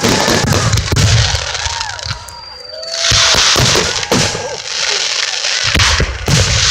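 Fireworks going off: a run of sharp bangs and pops with two long stretches of dense crackling, and a thin high whistle about two seconds in.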